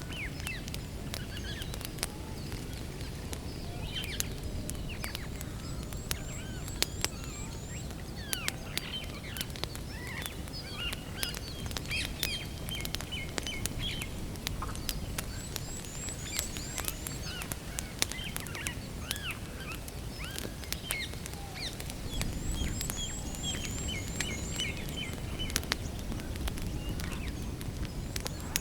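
Wood campfire crackling, with frequent sharp pops and snaps over a low steady rumble. Songbirds chirp and trill throughout.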